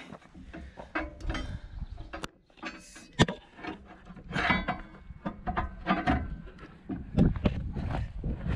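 Irregular knocks, clanks and scraping as a mini excavator's track is worked at by hand, trying to force it off the sprocket; a sharp strike about three seconds in is the loudest.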